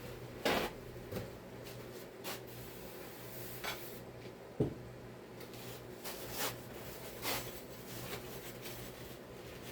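A grubby chainsaw part being wiped and rubbed clean with a rag: scattered short scrubbing strokes and light handling clicks, with one dull knock about halfway through. A steady low hum runs underneath.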